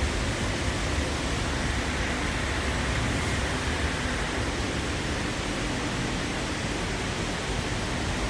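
Steady running noise inside a moving Sydney Trains K set electric train carriage: a low rumble from the wheels and track under an even rushing noise.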